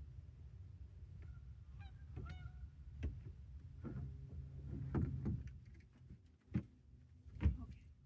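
A few short honking bird calls about two seconds in, over a steady low rumble, with several separate knocks and thuds through the rest.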